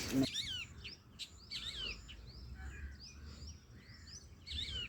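Birds chirping repeatedly, many short calls that sweep quickly downward in pitch, over a faint low background rumble.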